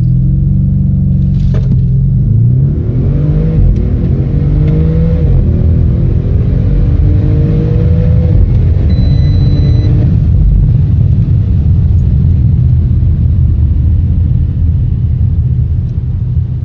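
Audi RS6's twin-turbo 4.0 V8 accelerating hard from a standstill, its pitch climbing in a run of steps with a brief drop at each upshift. It then settles into a steady rumble for the last several seconds.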